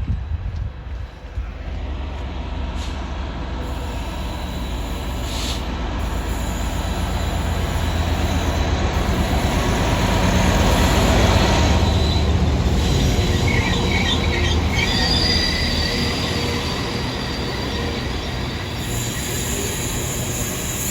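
Intermodal container freight train passing on the rails: a steady rumble of wagon wheels that builds to its loudest about halfway through and then eases. Brief high-pitched wheel squeals come roughly two-thirds of the way in.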